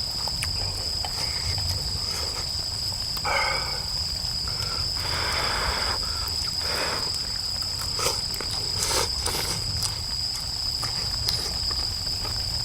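Crickets trilling steadily in two high continuous tones, with scattered sharp crackles and pops from firewood burning in a fire pit and a few brief rustles.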